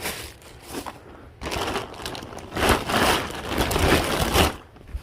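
Packaging crinkling and rustling as items are handled and unwrapped, loudest from about a second and a half in until shortly before the end.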